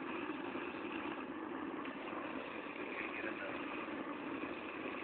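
Homemade foundry furnace running with a steady rushing noise while it heats a crucible of silver that has not yet melted.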